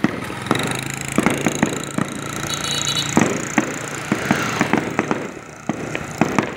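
Aerial fireworks going off: irregular sharp bangs and pops, sometimes several in quick succession, with a steady low hum underneath.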